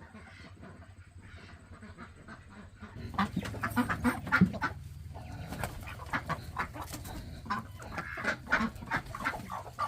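Chickens clucking in a string of short, quick calls, starting about three seconds in after a quieter stretch.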